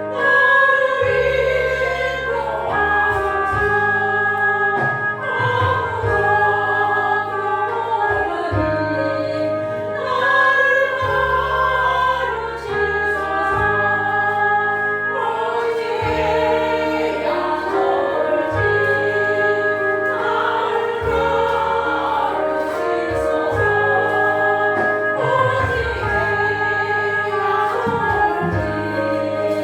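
Church choir singing a hymn anthem, held notes over a steady accompaniment.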